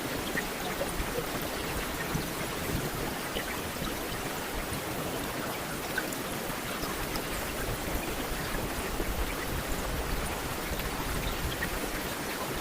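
Steady rain: an even hiss with scattered individual drops ticking.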